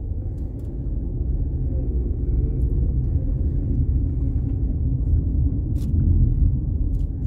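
Car on the move: a steady low rumble of engine and road noise, swelling slightly, with a few faint clicks.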